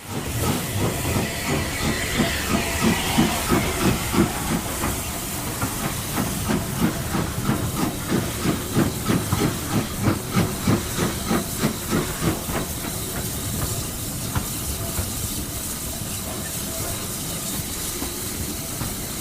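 Steam locomotive working, its exhaust beats coming in a fast, regular rhythm over steam hiss; about two-thirds of the way through the beats fade into a steady hiss and rumble.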